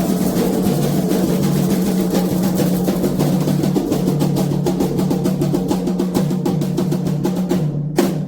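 Candomblé atabaque drums played in a fast roll that speeds up, breaking off abruptly just before the end, followed by one last loud stroke.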